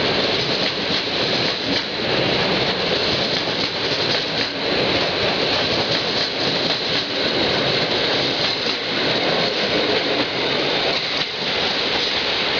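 Departing express passenger train rolling past at low speed: a steady, loud rolling noise with no clear beat of rail joints.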